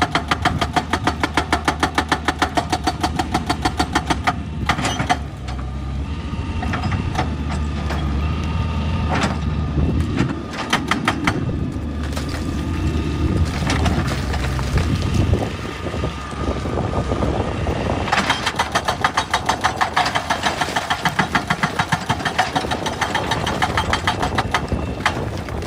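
Excavator-mounted hydraulic rock breaker hammering at rock in rapid, regular blows for about four seconds, then stopping while the diesel engine runs on with scattered knocks of rock. The hammering starts again about eighteen seconds in and stops near the end.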